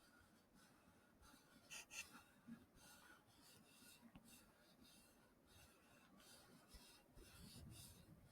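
Faint, soft swishing strokes close to an ASMR microphone, about two a second, in near silence.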